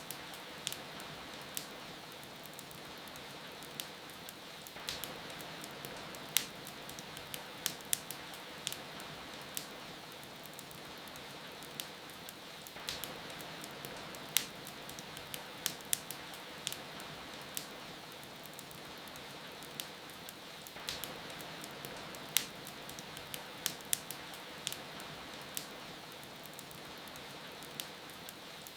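Wood fire crackling, with irregular sharp pops a few times a second, over a steady hiss of rain.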